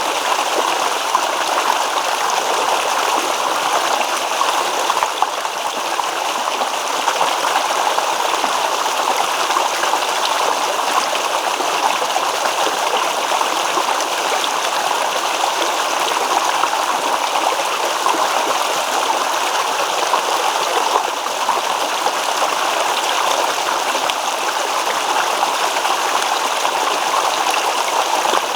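A small stream babbling and rippling over rocks, a steady rushing of water with no change.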